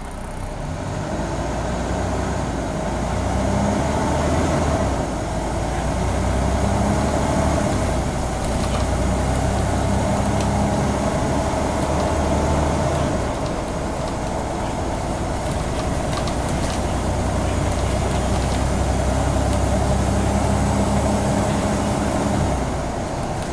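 Scania N94UB Omnicity single-deck bus's diesel engine running under way, heard from on board: a steady low drone with road noise. The engine note shifts a few times, about five seconds in, again near the middle and near the end.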